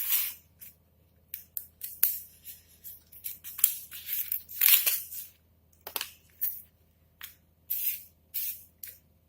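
Utility-knife blade cutting through high-density polyfoam sheet in a series of short, irregular scraping strokes, a few of them drawn out longer.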